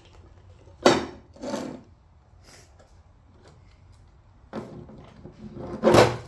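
Toy monster trucks knocking and clattering on a wooden table: a few separate bumps about a second in and again near the end, the last the loudest.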